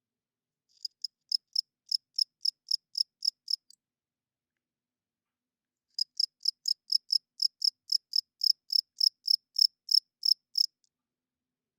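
Male cricket chirping in a steady high-pitched pulse of about four chirps a second, in two bouts separated by a pause of about two seconds.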